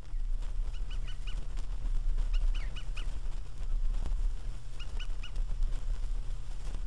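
A bird calling in quick groups of about four short notes, repeated every couple of seconds, over a steady low rumble of lineside countryside ambience.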